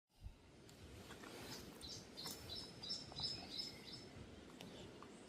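Forest birds calling: a run of short, high chirps about two to four seconds in over faint, steady rainforest ambience.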